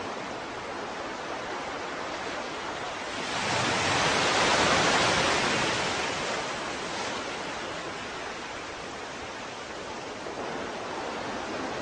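Ocean surf: a steady wash of water, with one wave rising and breaking about three to four seconds in and washing back over the next few seconds.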